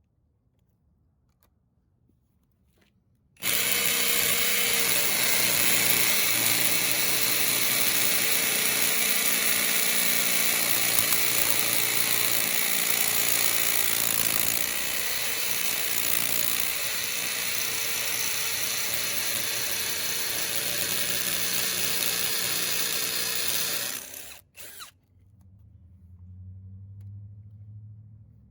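Ryobi cordless hammer drill boring into concrete with a masonry bit. It starts suddenly about three seconds in, runs steadily for about twenty seconds, stops, and gives one short burst just after.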